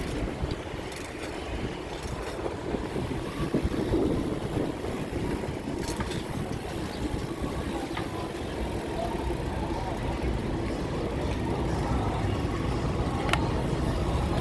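Steady low rumble of wind and road noise heard while riding a bicycle, with a few sharp clicks.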